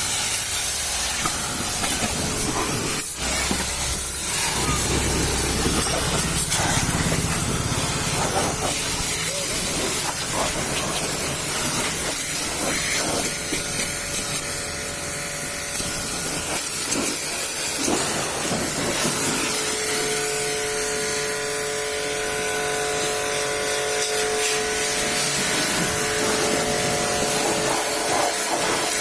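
High-pressure washer spraying water in a steady hiss.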